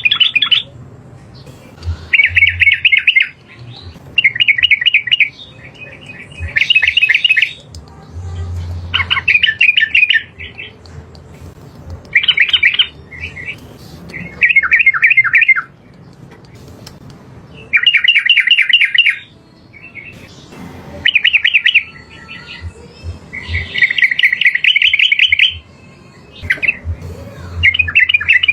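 Yellow-vented bulbul (trucukan) singing: about a dozen short bursts of rapid, bubbling repeated notes, each lasting a second or so, with brief pauses between them.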